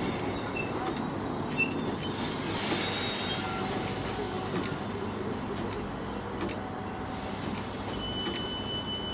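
A train at a station platform, a steady rumble with a short burst of hiss about two and a half seconds in. A steady high tone starts near the end.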